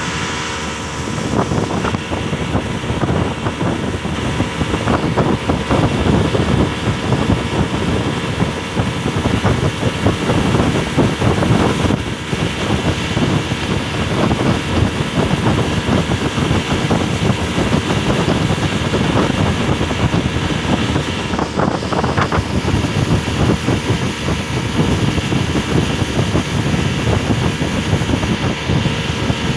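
Speedboat engine running steadily at speed over a rushing noise, getting louder about a second in.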